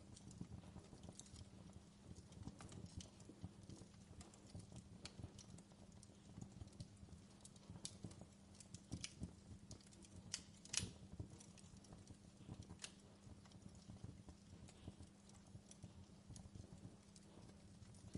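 Faint fireplace crackling: irregular small pops and snaps of burning wood, with a louder crackle a little past the middle.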